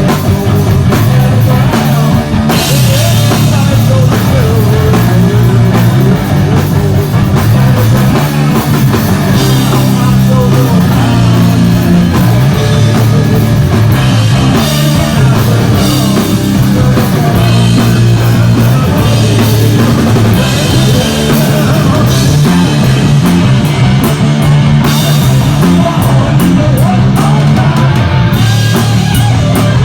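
Live heavy rock band playing: loud distorted electric guitars and bass over a full drum kit with crashing cymbals, with no singing.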